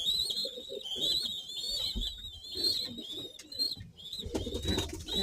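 Homing pigeons in a loft: low cooing, over a near-continuous high-pitched wavering squeak that fits young pigeons begging.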